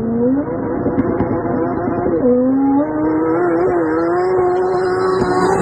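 Car engine under hard acceleration, its pitch climbing, dropping sharply at a gear change about two seconds in, then climbing again through the next gear.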